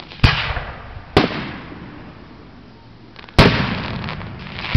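Aerial firework shells bursting overhead: three loud bangs about a second and two seconds apart, each trailing off, with another bang right at the end.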